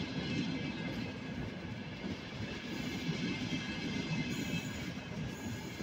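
ETR 500 high-speed electric train passing along the platform: a steady, continuous noise of its carriages and wheels running on the rails.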